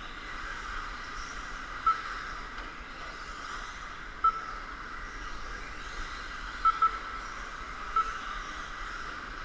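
Several 1/10-scale electric RC stadium trucks running around the track, with a steady whine of motors and gears. Five short, sharp beeps cut through it, two of them in quick succession, as trucks cross the lap-timing line.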